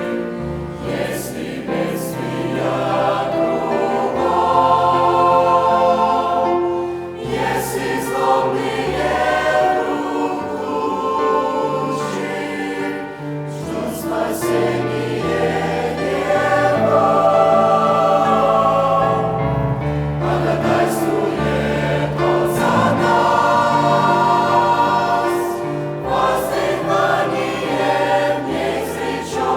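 Church choir singing a Russian-language hymn, with long held chords and steady low notes that change every few seconds.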